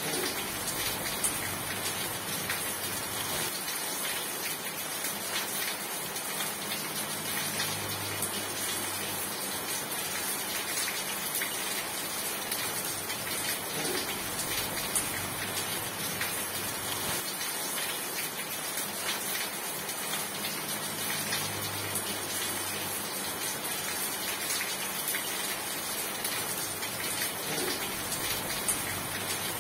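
Steady rain falling, a dense even hiss of drops with fine scattered patters. A faint low rumble swells and fades twice underneath.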